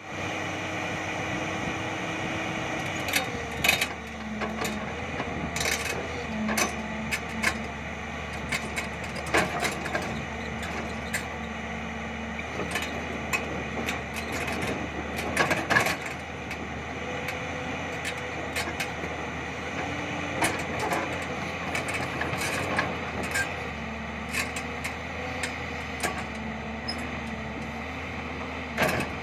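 Excavator's diesel engine running steadily, its pitch shifting now and then, with sharp metal knocks and clanks scattered throughout.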